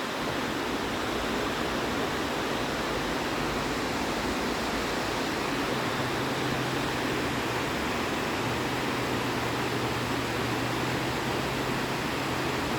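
Steady rushing of flowing water, even and unbroken, with a faint low hum underneath.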